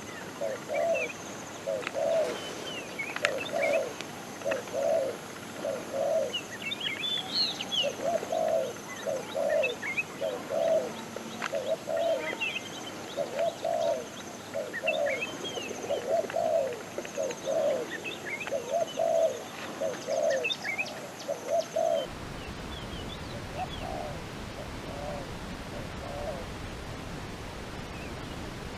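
Dove cooing over and over, about once a second, with small birds chirping and twittering above it. About three quarters of the way through, the sound cuts abruptly to a steady hiss with only a few faint coos.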